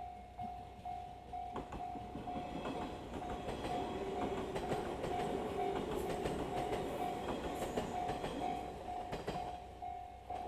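Japanese railway level-crossing warning bell ringing in an even beat about twice a second while a train runs past. The train's rumble builds through the middle and eases off near the end.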